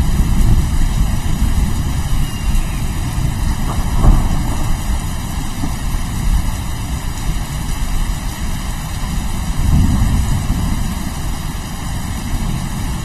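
Steady rain with low rolling thunder rumbling beneath it, the rumble swelling about four seconds in and again around ten seconds.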